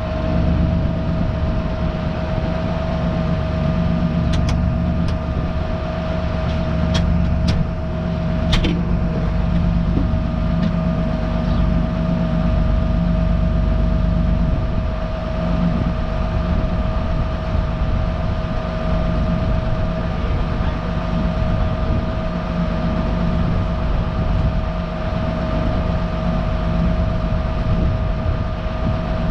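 Tractor engine running steadily, with a steady high whine over the low engine sound and a few sharp clicks about four to nine seconds in.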